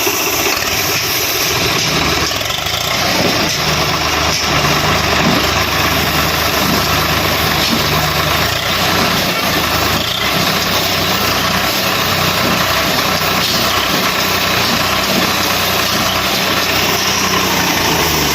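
Swaraj tractor's diesel engine idling steadily.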